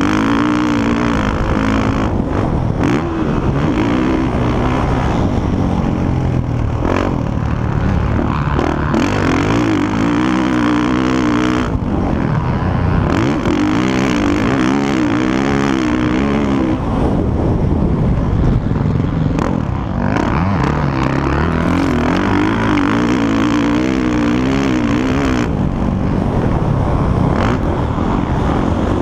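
Motocross bike engines revving hard and backing off, over and over, their pitch rising and falling as the bikes ride the track.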